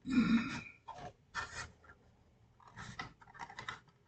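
Hard plastic model kit parts clicking and scratching as they are handled and pried at, in irregular short bursts, the loudest right at the start. The sound comes from a glued-in landing gear door being worked loose from the fuselage.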